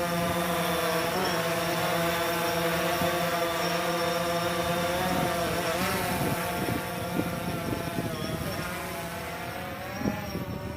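DJI Phantom quadcopter's propellers giving a steady buzzing whine as the drone lifts off, the pitch wavering slightly as it manoeuvres and the sound getting quieter over the last few seconds as it pulls away.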